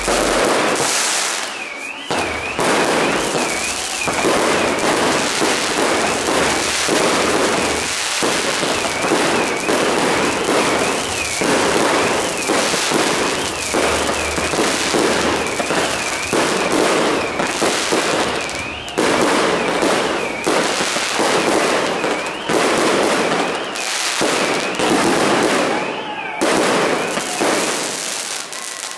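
Maltese ground fireworks burning: dense, continuous crackling and hissing, with a whistle that swings up and down in pitch over and over through most of the display.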